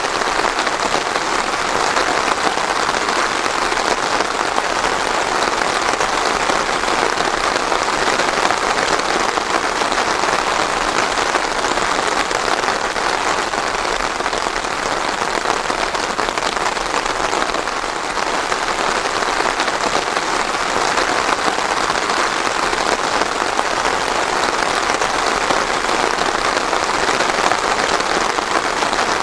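Steady rain falling and pattering on surfaces, an even, unbroken hiss with no thunder.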